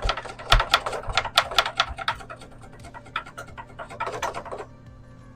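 Razor blade sawing back and forth through PEX tubing by hand: a rapid series of rasping strokes for about two seconds, then a few shorter runs of strokes.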